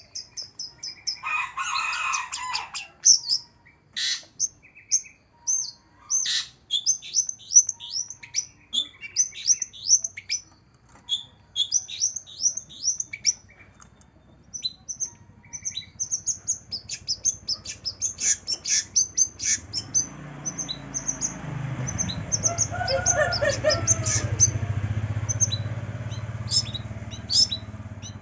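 Long-tailed shrike (cendet) singing: a fast, chattering run of sharp, high, downward-sweeping chirps and calls, with a harsher rasping burst about two seconds in. From about twenty seconds in, a low rumble runs under the song.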